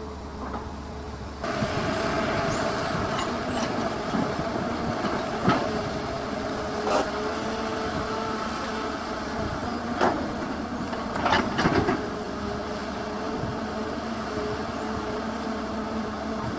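Diesel engine of earthmoving machinery running steadily, with several sharp knocks. It gets louder suddenly about a second and a half in.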